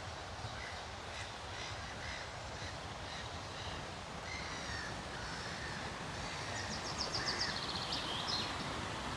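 Forest birds calling over the steady rush of river rapids, with a harsh, rapid chattering call about seven seconds in that is the loudest sound.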